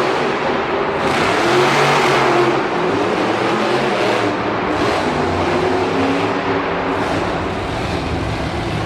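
Monster truck engine revving loudly, its pitch rising and falling over a steady roar, loudest about two seconds in.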